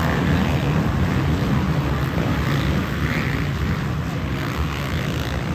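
A pack of 450 motocross bikes racing on the track, their engines making a steady mass of noise.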